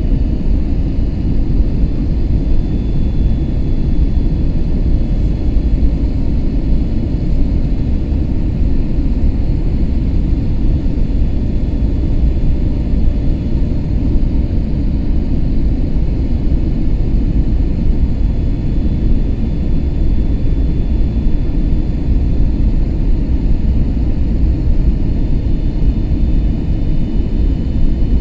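Airbus A321neo in flight: a steady low rumble of engines and airflow, with faint steady whining tones above it.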